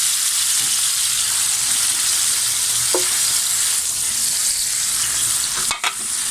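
Yellowfin tuna steak sizzling in hot oil in a frying pan along with its soy sauce and calamansi marinade: a steady, loud sizzle that dips briefly near the end.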